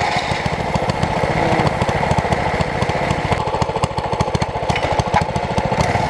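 Mini bike's small engine running steadily with a fast, even patter of firing pulses.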